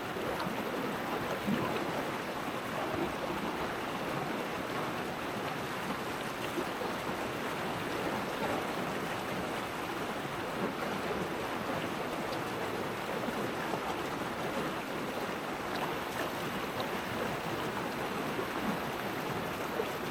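Steady rush of running water, like a nearby stream, with a few faint ticks.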